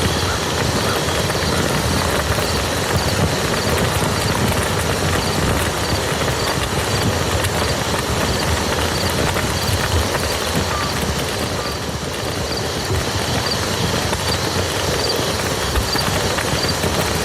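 Steady rain falling on muddy ground, a dense patter of drops. A faint high chirp repeats about every half second.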